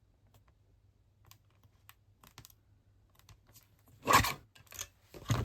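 Light clicks and taps of card and tools being handled, then about four seconds in, a few louder short scraping strokes of a small paper trimmer (guillotine) cutting a strip of card stock.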